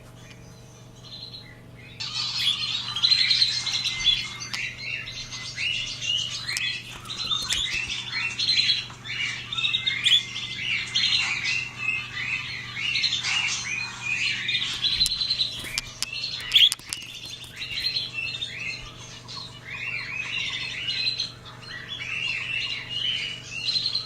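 Pet budgies (budgerigars) chattering and chirping continuously with quick warbles and squawks, starting about two seconds in, over a faint steady low hum.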